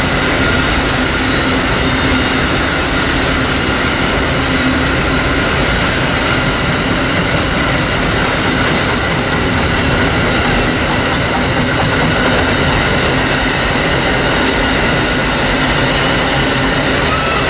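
Railroad cars rolling steadily past, with the continuous noise of steel wheels on rail and a faint steady whine from the wheels.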